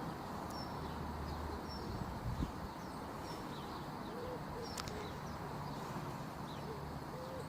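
Outdoor platform ambience: a steady low hum, with a small bird giving a short high chirp over and over, about once every three-quarters of a second. A pigeon coos faintly in the second half.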